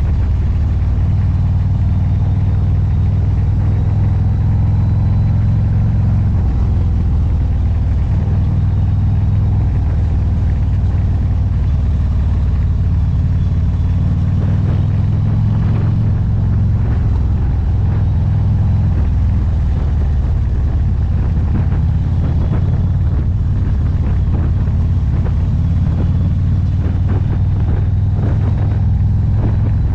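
Motorcycle engine running steadily under way, with a constant low rumble.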